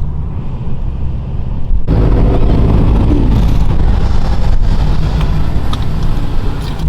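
Supercharged V8 of a 900-plus-horsepower Dodge Hellcat idling low and steady, described as just quiet and a little sneaky for its power. About two seconds in the sound suddenly gets louder and fuller, a deeper rumble with more noise on top.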